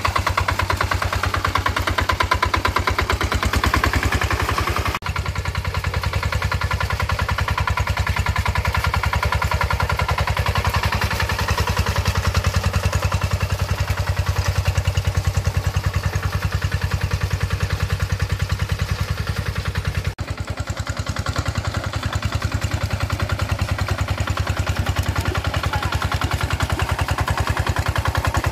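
Tractor engine running steadily with a rapid, even firing beat, briefly dropping out twice, about five and twenty seconds in.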